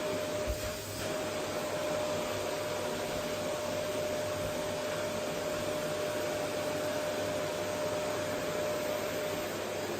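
Vacuum cleaner running steadily: an even rushing noise with a steady whine through it, and a few low bumps about half a second in.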